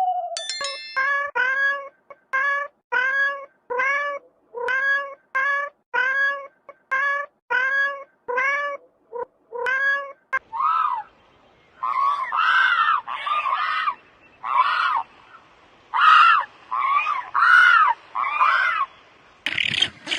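Cats meowing: a quick run of short, evenly spaced mews for about the first ten seconds, then longer, harsher meows spaced further apart.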